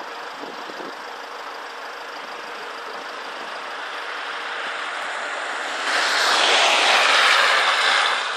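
Rushing wing noise of a starling murmuration, swelling into a loud whoosh about six seconds in as the flock sweeps close, then falling away near the end.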